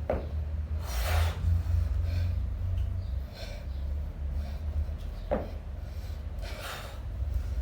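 Heavy, forceful breathing of a kettlebell lifter under exertion, with loud rushing breaths about a second in and again near the end, over a steady low hum.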